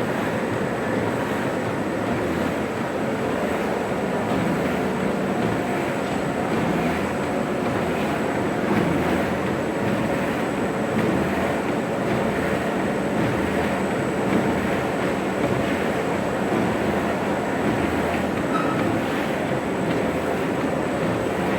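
Two-line plastic bag cutting machine running steadily, with a faint regular repeating beat from its cutting cycle and a thin steady high whine.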